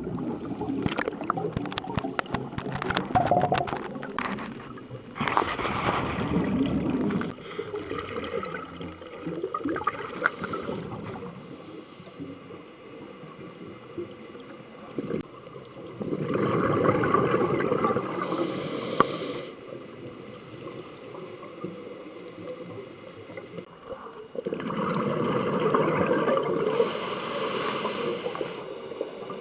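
Scuba diver breathing through a regulator, heard underwater: exhaled bubbles gurgle out in long bursts of about three seconds, roughly every nine to ten seconds, with quieter hiss between. Many clicks and knocks come in the first few seconds.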